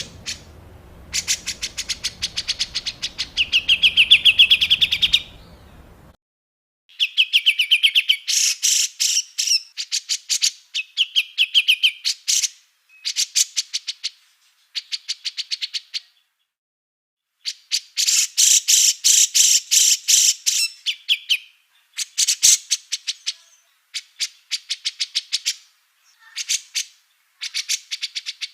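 Small songbird singing harsh, rapid-fire chattering bursts ('tembakan kasar'), each one to three seconds long and some ending in a fast trill, with short silent gaps between bursts.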